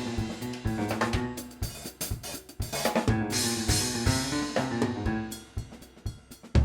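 Jazz trio music led by a drum kit playing snare, bass drum, hi-hat and cymbals over pitched bass and keyboard notes. The playing thins out and gets quieter near the end.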